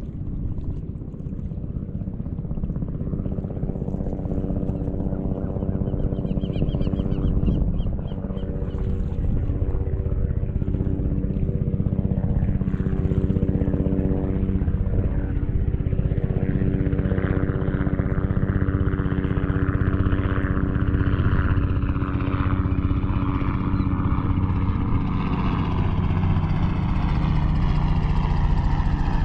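An engine, most likely a motorboat's, running with a steady hum that slowly grows louder, with higher tones falling in pitch near the end as it passes close.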